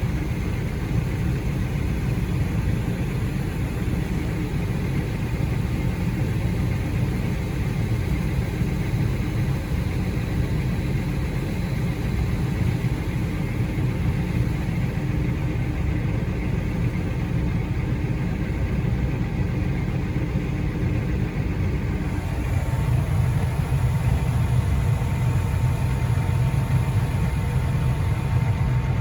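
A vehicle engine running steadily. About 22 seconds in, it gets somewhat louder and a steady higher whine joins it.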